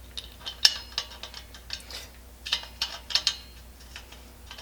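Metal parts of a Coleman 502 camp stove clicking and knocking together as a part is fitted back on, a string of irregular light clicks and taps.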